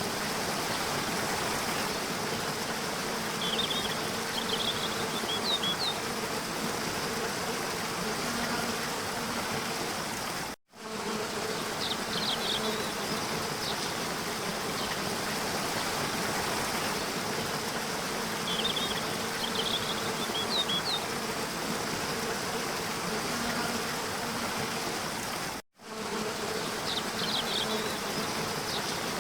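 Steady rush of a waterfall with insects buzzing over it and a few short high chirps now and then. The sound cuts out for an instant twice.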